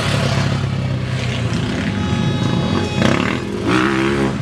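Enduro dirt-bike engine running and revving as the bike rides over a log obstacle, its pitch wavering up and down near the end.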